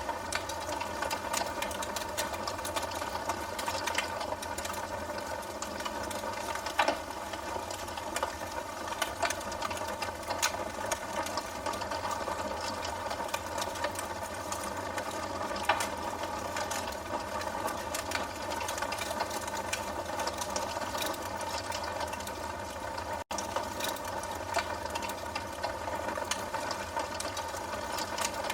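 Wood fire burning in a fireplace: a steady hiss of flames with frequent small crackles and a few louder pops, the loudest about seven seconds in and another near sixteen seconds.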